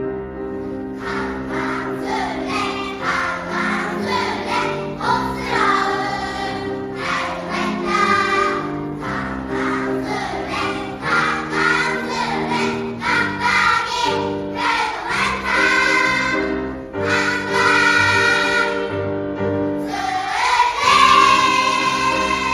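Choir singing a sustained, chordal passage that swells to its loudest on a held final note near the end.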